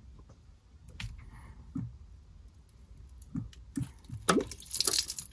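Hand-work on a diesel fine fuel filter being unscrewed: short knocks and handling noises, with a louder wet burst about four seconds in as diesel spills from the filter.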